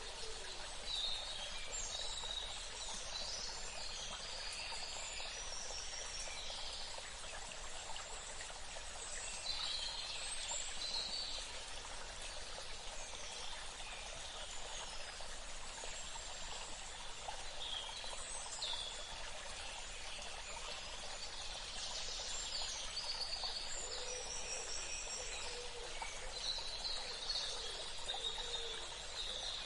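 Steady running water with birds chirping in short, high bursts every few seconds over it.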